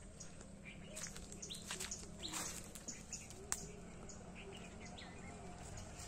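Birds chirping: many short, scattered calls and clicks over a faint low hum.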